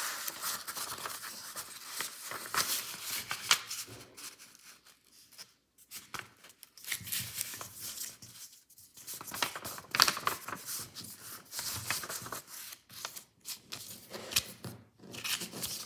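A sheet of paper being folded and creased by hand: dry rustling and crackling, coming in spells with short pauses.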